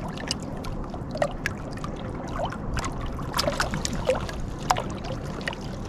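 Water lapping, with scattered light clicks and knocks of handled gear over a steady low rumble.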